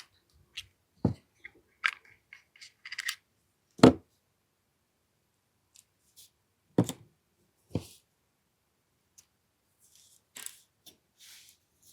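Clicks and knocks of an AAP-01 airsoft pistol being handled and test-cycled by hand after a spring change. The sharp clacks come singly, a few seconds apart, with the loudest about four seconds in. Short hissy rustles follow near the end.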